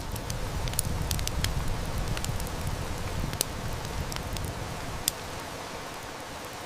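Steady rain hiss with a wood fire crackling, sharp snaps scattered through it. A low rumble runs under it for the first four seconds or so and then dies away.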